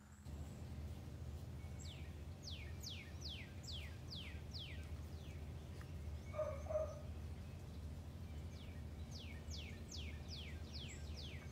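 A songbird singing two runs of quick whistles, each note sweeping steeply down in pitch, over a steady low rumble of background noise. About halfway there is a short, louder, lower-pitched call.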